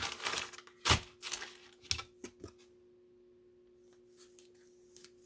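Trading cards and plastic packaging being handled on a table: a quick run of small clicks and rustles with one sharper click about a second in, then only a few faint ticks.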